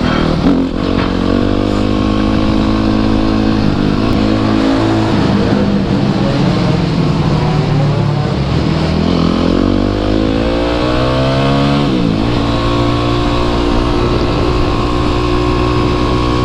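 Dirt bike engine running under way, its pitch rising and falling with throttle and gear changes; a long climb about eight seconds in drops off sharply near twelve seconds.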